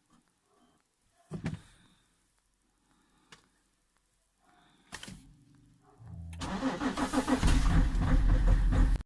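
BMW 525 xDrive engine cranking and catching on a cold start about six seconds in, then running steadily at a fast idle. Before it there is a single thump and a few small clicks.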